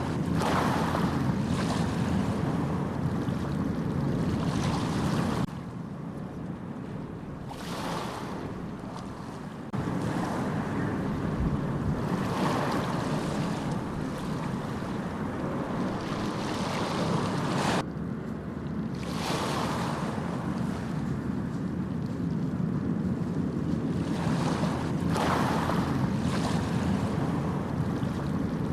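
Sea waves washing in and breaking, swelling every few seconds, with wind rumbling on the microphone. The sound changes abruptly a few times.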